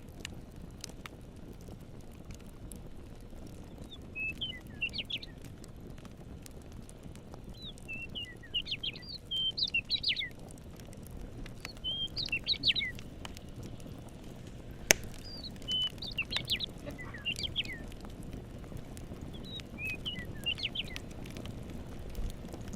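A songbird singing short, quick twittering phrases about every four seconds over a steady low rush, with scattered light crackles of a campfire and one sharper snap about fifteen seconds in.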